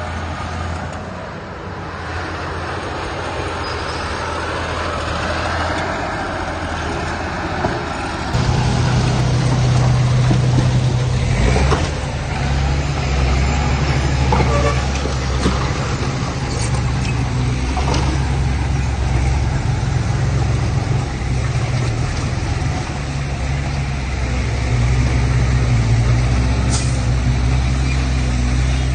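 Heavy diesel engine of a truck or earthmover running steadily, growing louder and heavier about eight seconds in as it comes under load, with a few short sharp sounds over it.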